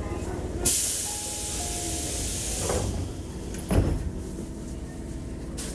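Sliding doors of a Tobu 8000 series commuter train closing at a station stop: a sudden loud hiss of air from the door engines about half a second in, fading over two seconds, then a heavy thud as the doors shut, over the train's steady low hum.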